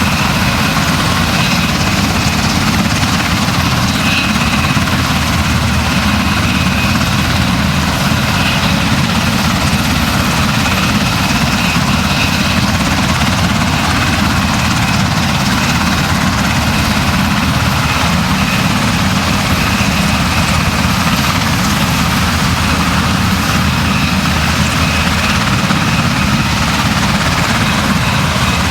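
Steady engine drone with a heavy low rumble, unchanging throughout.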